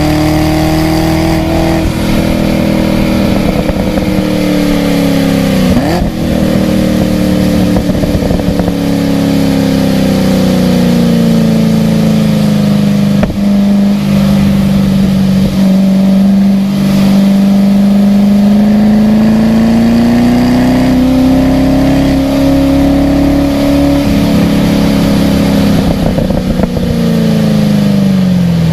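Car engine running under load on a wet race track, its note dropping sharply about six seconds in, then slowly sinking and rising again before falling near the end as the car slows and speeds up through corners.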